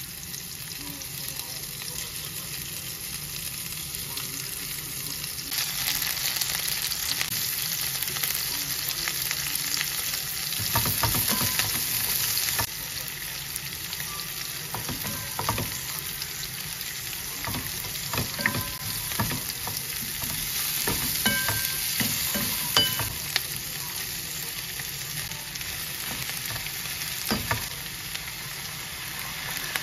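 Chicken pieces frying in oil in a nonstick frying pan, sizzling steadily, with onions and shimeji mushrooms later frying alongside. The sizzle is louder for several seconds in the middle, and from there on there are scattered sharp taps and scrapes of cooking utensils stirring in the pan.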